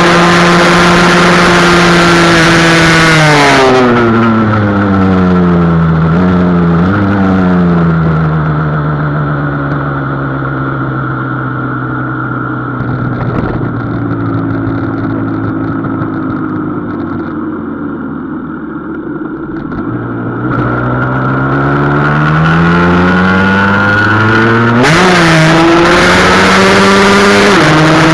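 Husqvarna SM 125 supermoto's two-stroke single running at high revs and holding steady, then its pitch falls away for a long stretch with a couple of short blips, typical of slowing down with downshifts. It then climbs again through the gears back to a steady high-revving pitch near the end.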